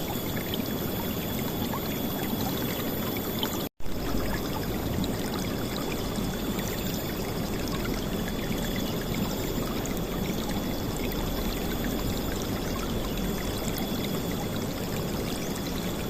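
River water flowing and splashing in a steady, loud rush. The sound cuts out for an instant about four seconds in, then carries on as before.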